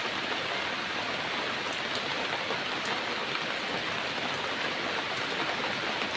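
Heavy rain falling steadily, an even dense hiss with a few faint sharp drop ticks.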